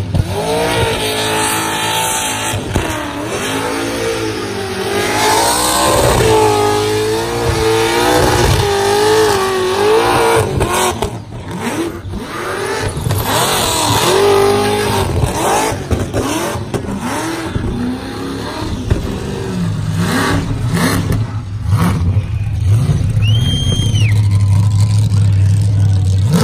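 Burnout car's engine revving hard through a tyre-smoking burnout, its pitch wavering up and down as the throttle is worked. The note breaks up in the middle and settles to a steadier, lower drone near the end.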